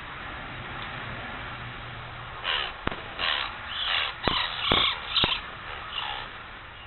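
A bird giving a series of about seven harsh, grating calls over three or four seconds, starting about two and a half seconds in, with a few sharp clicks among them, over a steady hiss.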